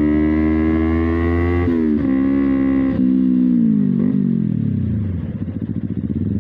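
Kawasaki Ninja 250 FI's parallel-twin engine under way. The revs climb slowly, drop sharply about two seconds in, then fall away for about two seconds as the bike slows, before rising again near the end.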